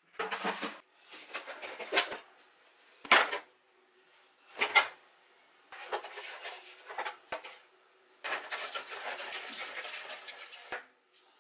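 Kitchen containers and dishes being handled: a run of clinks, knocks and rattles, with the sharpest knocks about 2, 3 and 5 seconds in, then a longer stretch of continuous rattling and rustling near the end.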